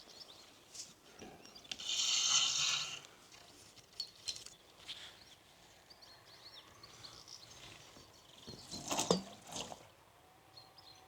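Faint outdoor ambience with small birds chirping now and then, a louder noisy sound lasting about a second about two seconds in, and a few short knocks around nine seconds in.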